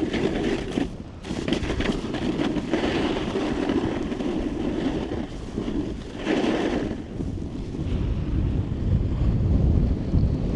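Snowboard edge scraping and hissing across the snow as the rider carves, with wind buffeting the body-worn microphone; the wind rumble grows in the last couple of seconds.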